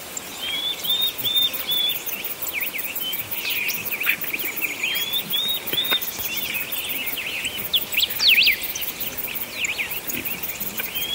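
Birds chirping: quick high chirps and short sweeping calls, with the same phrase recurring every few seconds, starting abruptly out of silence.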